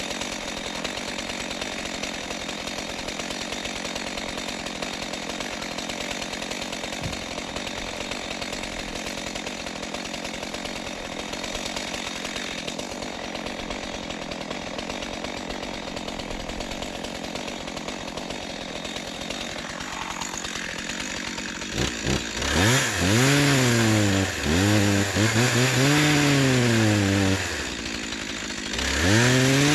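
Chainsaw engine running steadily, then from about 22 seconds in revving louder with its pitch rising and falling again and again as the throttle is worked.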